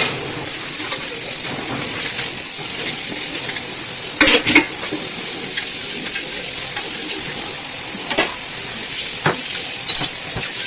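Utensils being washed by hand: a steady hiss of running water with a few sharp clinks of steel dishes and spoons knocking together.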